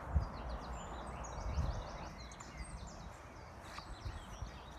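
Small songbirds singing, many quick high chirps and trills overlapping, over a low rumble with a few soft thuds.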